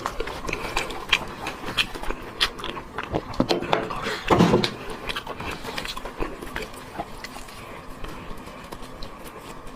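Close-miked eating sounds: repeated bites and chewing with many short crunching clicks, the loudest about four and a half seconds in.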